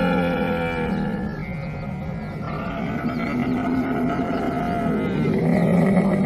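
Camel groaning and bellowing, long rough calls that swell and fade, one ending about a second in and another building to its loudest near the end.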